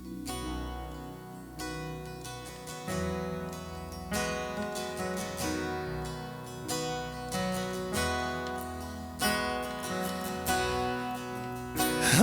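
Instrumental worship-band music: acoustic guitar chords struck about every second or so over a low sustained pad, building gradually in loudness as a song intro.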